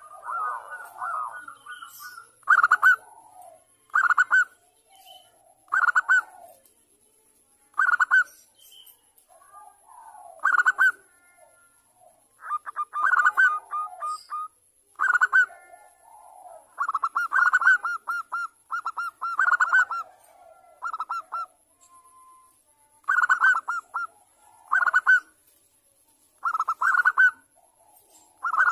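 Zebra dove (perkutut) cooing: quick, rapidly pulsed phrases repeated about every two seconds, with softer, lower calls in between.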